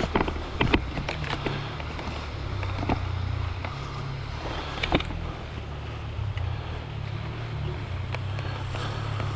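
Enduro motorcycle engine idling steadily at low revs, with a few sharp clicks and knocks over it.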